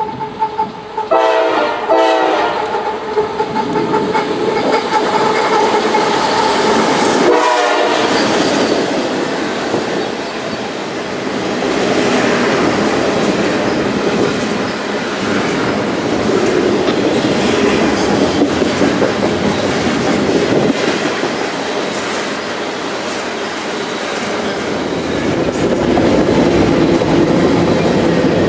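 Diesel locomotive air horn sounding two short blasts, then a third blast a few seconds later. After that comes a long freight train rolling past, with steady wheel-and-rail noise and clickety-clack over the rail joints.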